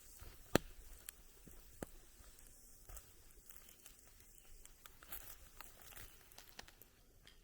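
Campfire crackling faintly: scattered sharp pops and snaps, one loud snap about half a second in.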